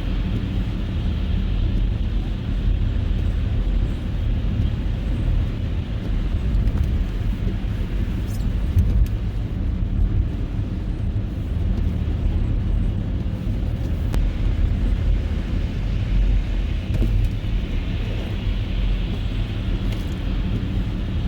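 Car driving through snow: a steady low rumble of engine and tyres on the road.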